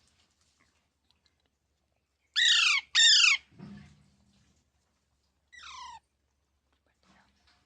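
Pet green parrot, a rose-ringed parakeet, squawking: two loud harsh calls in quick succession about two and a half seconds in, each falling in pitch, and a fainter call near six seconds.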